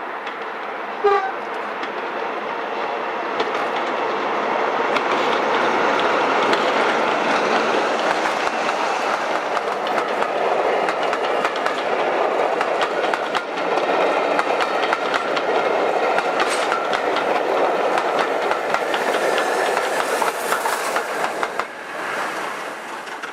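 Heritage passenger train passing close by, with a short blast from the train about a second in. The noise of the running train and its wheels clicking over the rail joints builds to a steady din, eases near the end and then stops abruptly.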